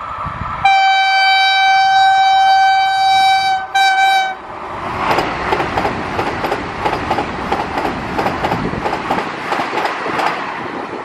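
Vande Bharat Express electric trainset sounding its horn, one long blast of about three seconds and then a short one, then rushing past at about 130 km/h with a fast rhythmic clatter of wheels over rail joints.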